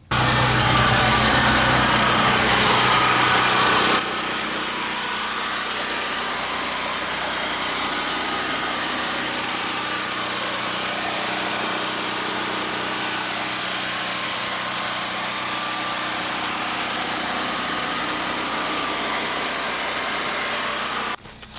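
Cheap portable generator running steadily, a loud engine drone with a low hum underneath. It is louder for the first four seconds, then holds at a lower level until it cuts off abruptly near the end.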